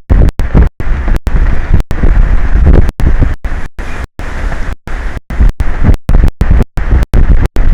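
Strong wind buffeting an exposed microphone: a loud, rumbling roar that cuts out in brief silent gaps several times a second, as if the audio feed is breaking up.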